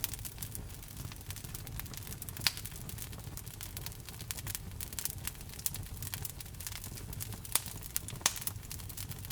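Wood fire burning in a fireplace, with a steady low rumble under constant crackling and a few louder pops.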